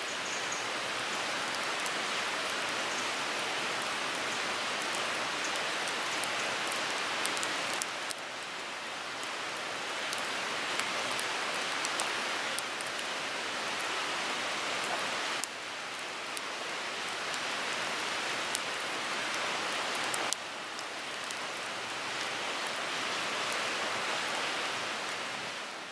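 Wood fire burning in a Picogrill 398 fire pit: a steady hiss with scattered sharp crackles, fading out at the end.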